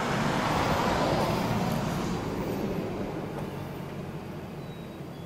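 Arctic Cat Wildcat 1000 side-by-side's V-twin engine running through its stock exhaust. It is loudest about a second in and then fades steadily.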